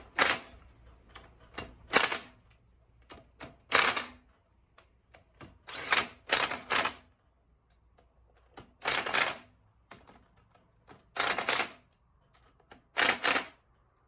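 Small impact wrench hammering in short bursts, about nine in all with pauses between, as it runs the clutch cover bolts down tight onto the engine's flywheel.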